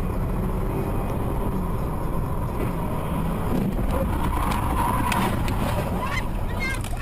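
A car driving, with a steady low rumble of engine and road noise picked up by a dashcam. Near the end a few short sliding tones sound over it.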